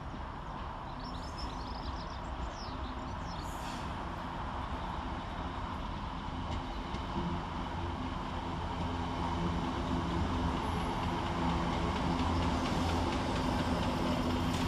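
Scotrail Class 320 electric multiple unit arriving at a platform, its steady electric hum and wheel rumble growing louder as it draws in. A few brief high chirps sound in the first seconds.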